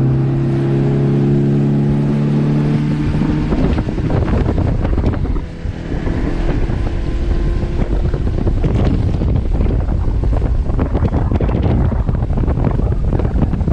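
Motorboat engine running hard at steady pitch as the boat gets under way. From about three and a half seconds in, wind buffeting the microphone and rushing water take over, with the engine faintly under them.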